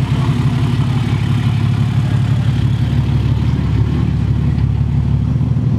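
Car engines running at low speed as convertible sports cars drive slowly past: a loud, steady low rumble.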